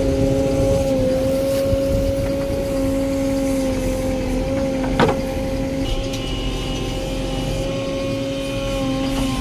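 Diesel machinery running steadily with a constant whine, from the backhoe loader or tractor at work. There is a single sharp knock about halfway through.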